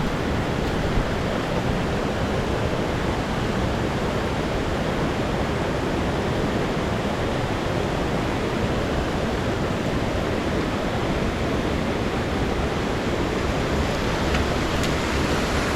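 Mountain stream water rushing steadily, an even unbroken noise.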